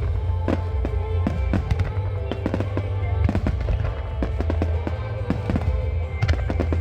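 Fireworks finale barrage: a dense, irregular run of sharp bangs and cracks, several a second, over a continuous low rumble of shells bursting.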